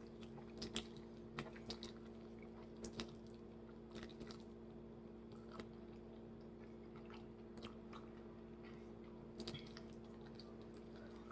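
Quiet close-up chewing of burnt chicken, with scattered small crunches and wet clicks at irregular moments over a steady low hum.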